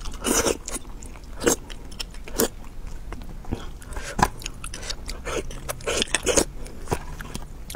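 Close-up eating: wet biting and chewing of sauced meat, with irregular sharp smacks and crunches, the loudest about a second and a half in, past four seconds and near six seconds.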